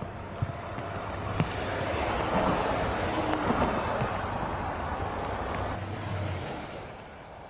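A motor vehicle's engine running, its noise swelling to a peak mid-way and then fading, as when it drives past. The low engine hum stops about six seconds in.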